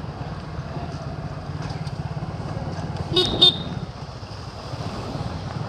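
Motorcycle engine running steadily while riding, with two short horn beeps a little after three seconds in.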